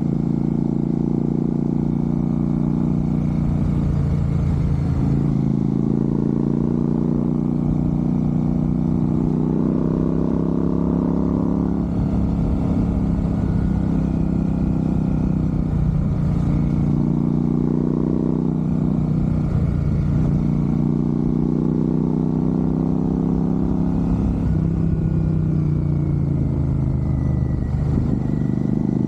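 Royal Enfield Super Meteor 650's parallel-twin engine running, its note dipping and climbing again several times through the stretch as the revs change.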